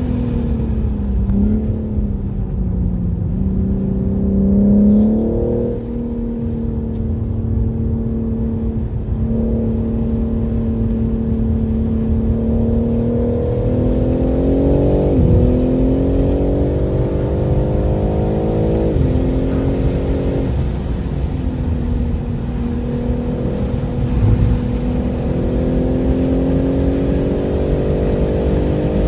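A 2023 BMW M3 Competition's twin-turbo inline-six pulling hard through the gears under steady road and wind noise. Its pitch climbs steadily and drops sharply at each gear change, several times over the half minute. Near the start it falls away, as if the car is slowing.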